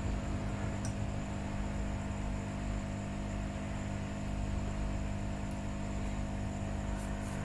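Steady electrical hum over a hiss, holding level throughout, with a couple of faint ticks.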